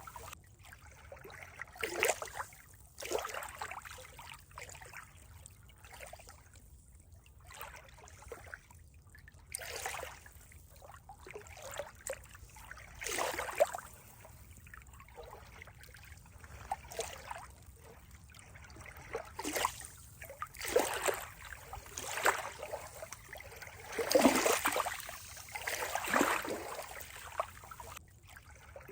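Water trickling and gurgling, with irregular small splashes and surges every second or so.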